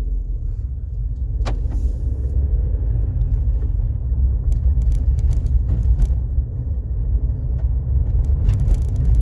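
Low, steady rumble of a small car's engine and tyres heard from inside the cabin while driving, picked up by a phone's built-in microphone. Scattered light clicks and knocks come through about a second and a half in, several in the middle, and a cluster near the end.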